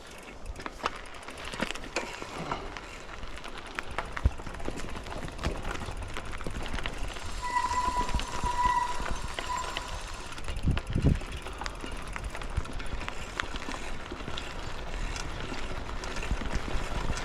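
Mountain bike being ridden along a woodland trail: steady tyre noise with scattered clicks and rattles over bumps. About halfway through, a short high tone sounds a few times, and a dull thump follows soon after.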